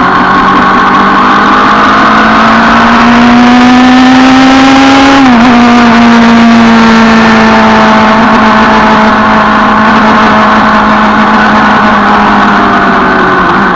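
Suzuki Bandit 650 N's inline-four engine under way, its revs rising steadily, dipping briefly about five seconds in, then easing slowly down, with wind noise from riding on the microphone.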